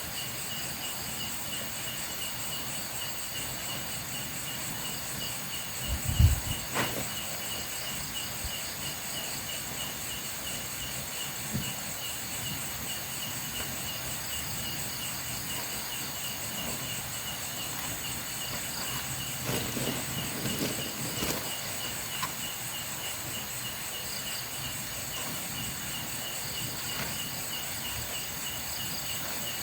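A steady chorus of night insects, crickets among them, chirping in rapid pulses at several high pitches. One short dull thump about six seconds in, and a few softer knocks or rustles around twenty seconds in.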